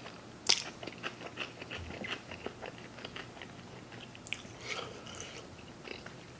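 Close-miked chewing of food with the lips closed: a run of small, wet clicks and smacks, with a sharper click about half a second in.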